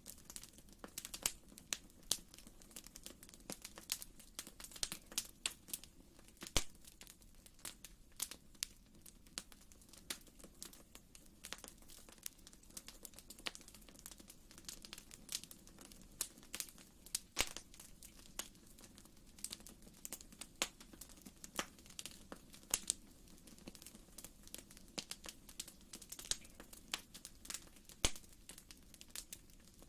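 Wood fire in a fireplace crackling, with many irregular sharp pops and snaps over a faint steady low hum.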